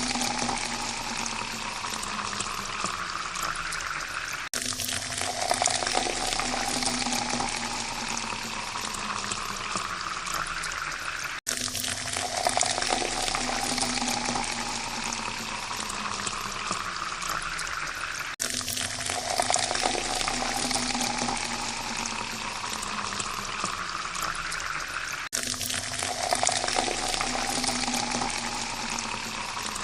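Water poured into a glass, splashing, with a tone that rises steadily as the glass fills. Each pour lasts about seven seconds, then stops abruptly and starts over.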